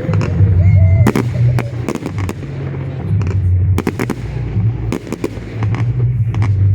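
Aerial fireworks bursting: sharp bangs and crackles come in quick clusters throughout, over a constant deep rumble.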